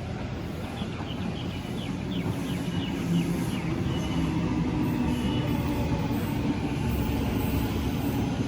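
A train running at a station platform, a low steady rumble that grows louder about two seconds in, with a run of short high squeaks between about one and three and a half seconds in.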